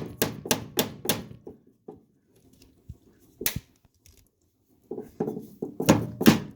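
Parts being worked and knocked into place on a steering column: sharp knocks and clicks, about three a second for the first second, then a few scattered ones, then a louder run of knocks near the end.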